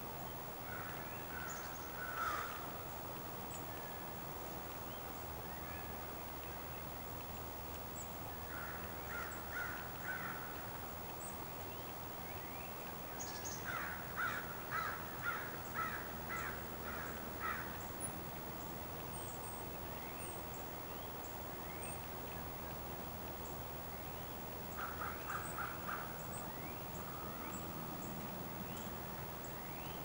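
Wild birds calling: one bird gives several runs of quickly repeated calls, the longest about eight notes at roughly two a second, while faint high chirps from small birds come and go over a steady low background rush.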